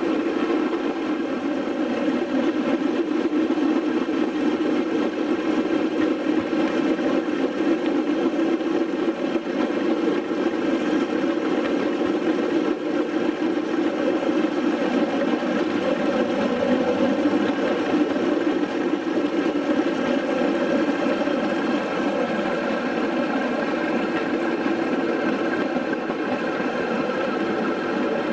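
An engine running steadily: an even, unbroken drone with a mid-pitched hum.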